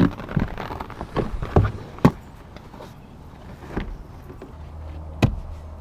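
Large molded rear floor liner being fitted into a pickup's back footwell: a series of irregular knocks and thumps as it is set down and pushed into place, with a low steady hum coming in near the end.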